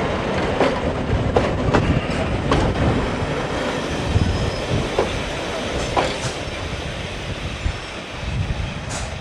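A passing train: a steady rumble of wheels on rail with irregular sharp clicks as the wheels cross rail joints, easing off a little near the end.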